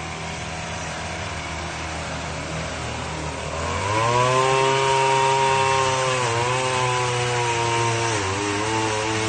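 Chainsaw running at a low speed, then revved to full throttle about four seconds in and held there, its pitch dipping briefly twice.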